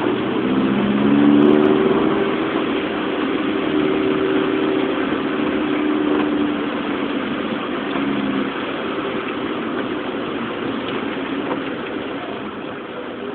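Car engine heard from on board, its note wavering up and down for the first several seconds and then dying away about two-thirds of the way through. Underneath is a steady hiss of heavy rain.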